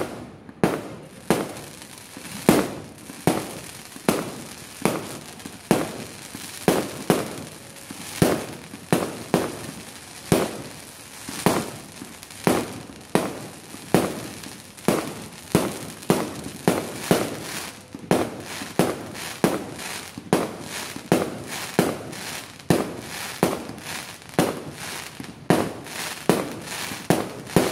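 Aerial fireworks going off in a long, steady series of sharp bangs, about one and a half a second, each trailing off briefly.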